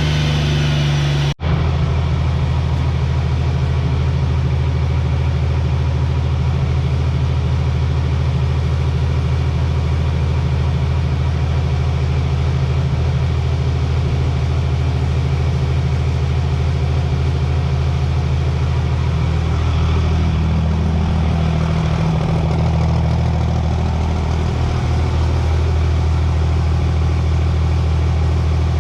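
Cummins diesel engine of a drag truck running steadily at idle, with a slight change in pitch around twenty seconds in. The sound drops out for an instant about a second and a half in.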